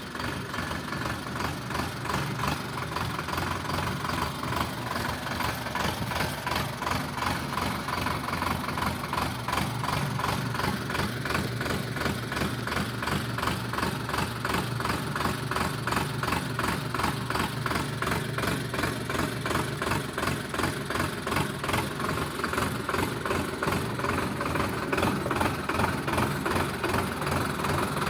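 Sonalika DI 750 tractor's diesel engine running steadily, with an even, rhythmic diesel knock.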